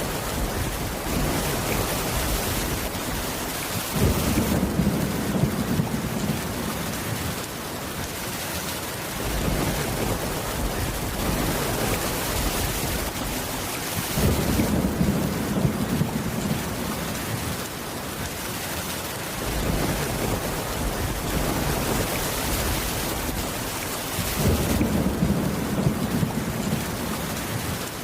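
Steady heavy rain with low rolls of thunder, three rumbles of a few seconds each, about ten seconds apart.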